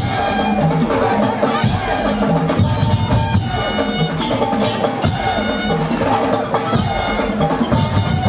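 Madurese daul percussion ensemble playing: loud drums and wood-block-like knocks, with a reedy wind melody of held tones over them.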